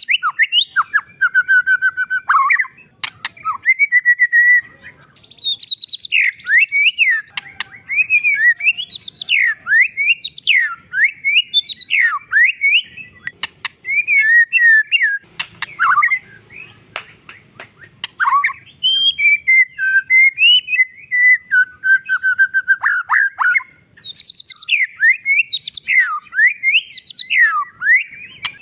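White-rumped shama (murai batu) singing a long, varied song of quick whistled phrases that rise and fall, with a few sharp clicks among them.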